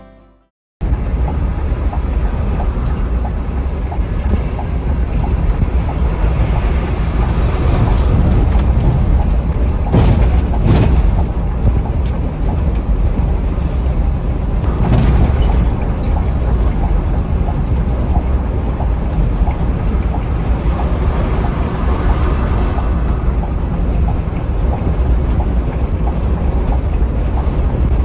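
Scania K360iB coach on the move: a steady, deep rumble of engine and road noise, with a couple of short knocks about ten seconds in.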